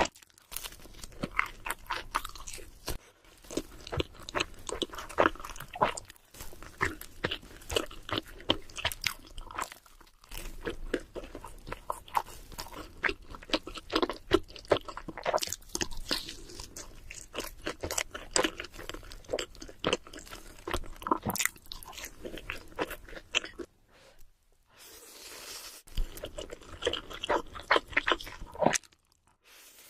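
Close-miked chewing and crunching of cheese seafood pizza, with crisp crackling bites and wet mouth sounds coming in irregular runs broken by a few short pauses.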